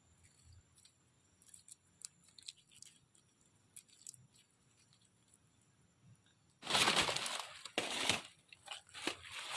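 Faint scattered clicks, then about two-thirds of the way in a sudden loud rustling and crackling that comes in uneven bursts.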